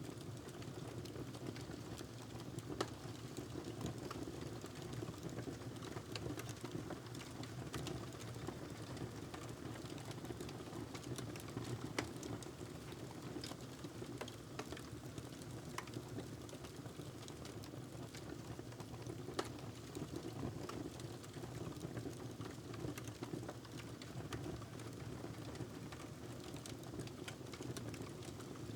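Wood fire crackling in a fireplace: irregular snaps and pops, a few louder ones, over a steady low rumble.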